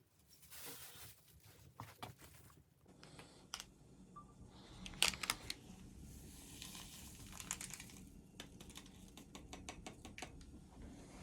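Close handling noises: rustling and crinkling with irregular sharp clicks and taps, growing busier about three seconds in.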